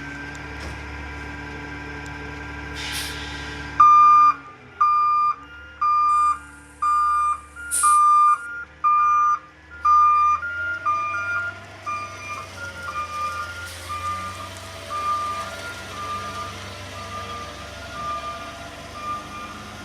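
Garbage truck's engine running, then about four seconds in its backup alarm starts beeping about once a second, loud at first and fainter from about ten seconds in, with the engine still running under it.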